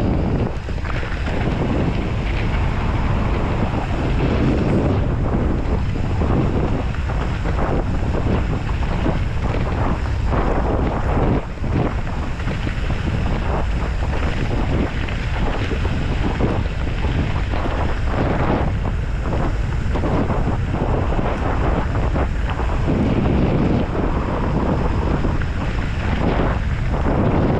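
Wind buffeting the microphone: a continuous loud rumble that keeps rising and falling.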